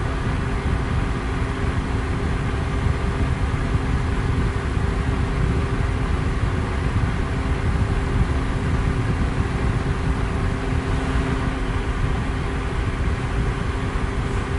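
Electric fan running steadily: a constant deep rush of moving air with a faint, even motor hum beneath it.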